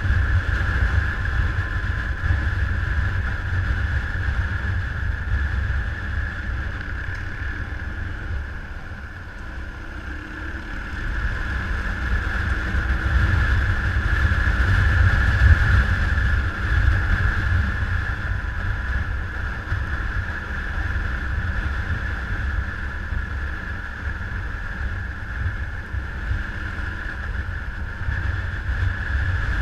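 Steady vehicle running with heavy wind rumble on the microphone; it eases off about nine seconds in and builds again a few seconds later.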